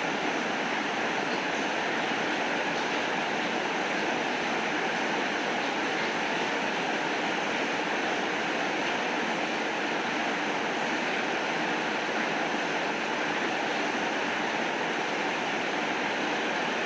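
Steady rain falling: an even hiss that doesn't let up or change.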